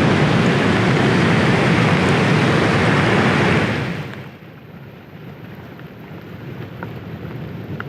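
Loud rushing storm noise of wind buffeting the microphone and surf or river water, which falls away sharply about four seconds in to a much quieter hiss.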